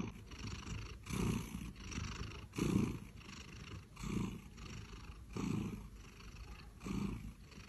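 Domestic cat purring, swelling and fading about every second and a half in time with its breathing.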